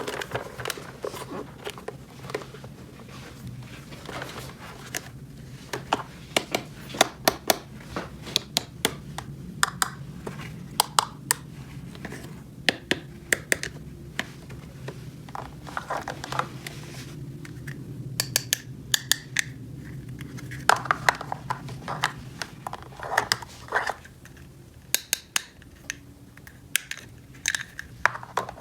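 Small plastic toy kitchen pieces being handled and set down: irregular clicks and taps, some in quick clusters, over a low steady hum.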